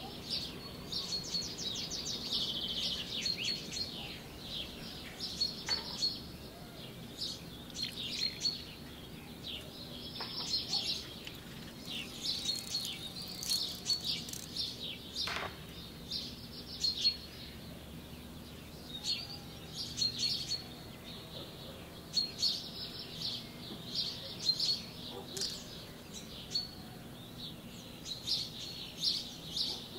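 Small birds chirping and twittering, many short high calls and quick trills repeating with brief gaps.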